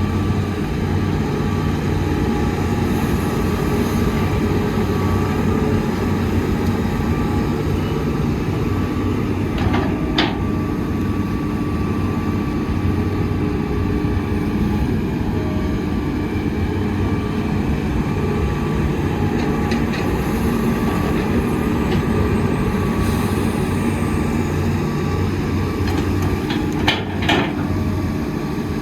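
Heavy diesel construction machinery running steadily at a constant engine note. There is a sharp knock about a third of the way in and a couple more near the end.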